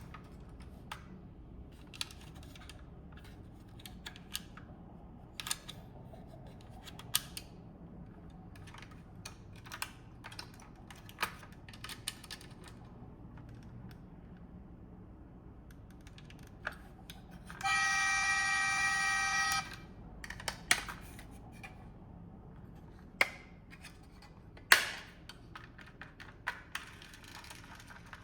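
Scattered light clicks and taps of small parts of a diecast model car being handled, over a low background hum. Just past the middle comes a steady buzzing tone with many overtones, lasting about two seconds, louder than everything else.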